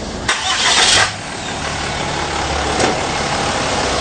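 A Ford F-150 pickup truck's engine starting with a sudden loud burst, then running steadily with a low rumble.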